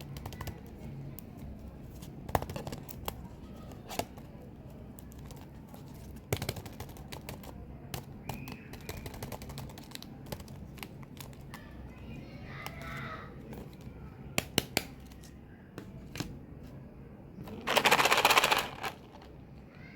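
Gum and mint packaging being handled: scattered plastic clicks and crinkles, then a loud, dense crackling burst lasting about a second near the end.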